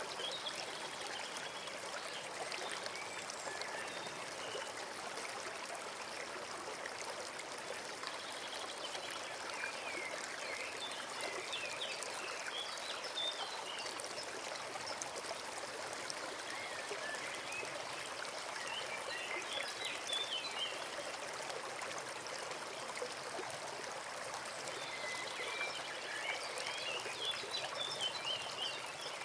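A forest stream running and trickling steadily over stones. A small bird sings short twittering phrases above it three times.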